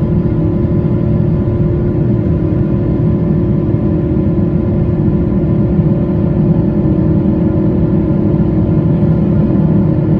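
Pratt & Whitney PW4090 turbofan engines of a Boeing 777-200ER heard from inside the cabin in the climb after takeoff: a steady, loud deep drone with a held whining tone over it.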